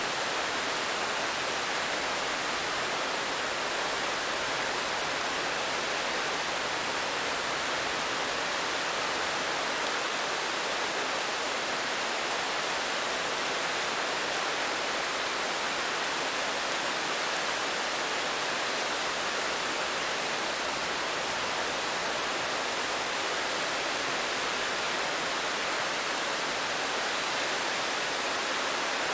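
Steady rain falling, an even hiss with no single drops, thunder or changes standing out.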